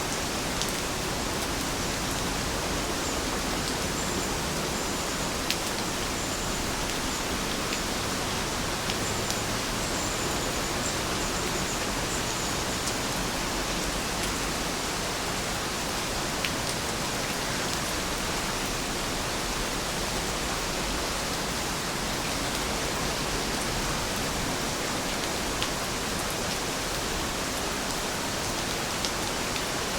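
Steady rainfall: an even hiss of rain with occasional sharper ticks of single drops.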